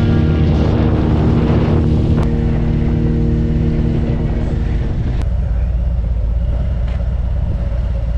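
Harley-Davidson motorcycle engine running at steady road speed, with wind rushing over the microphone. A steady engine tone over the rumble drops away about five seconds in, leaving the low rumble and wind.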